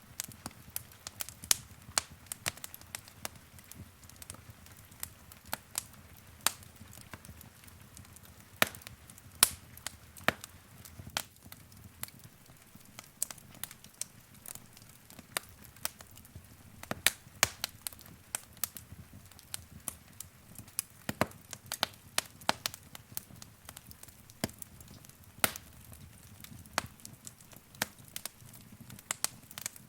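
Wood fire crackling in a fireplace: many sharp, irregular pops and snaps over a low, steady rumble of burning.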